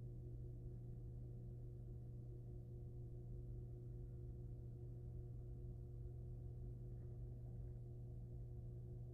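Steady electrical hum picked up by the nest-box camera's microphone: a low drone with two fainter steady tones above it, unchanging throughout.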